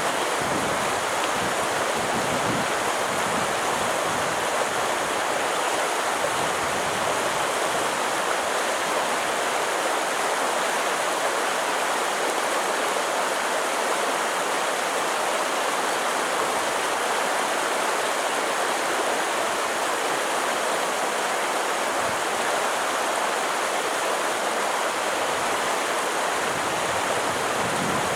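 A stream of water rushing steadily, an even hiss that never breaks or changes.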